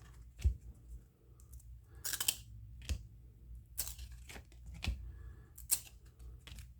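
Baseball cards being flipped through by hand, each card sliding off the stack with a short papery swish or snap, about one a second.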